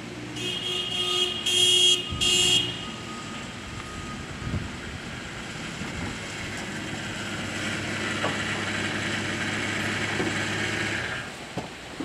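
Road-work vehicle noise: three short, loud, high-pitched tones in the first three seconds, then a heavy engine running steadily that stops near the end.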